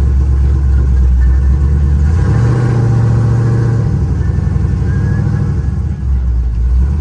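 Pickup truck engine running with a low rumble; it revs up about two seconds in, holds the higher note for about two seconds, then drops back toward idle.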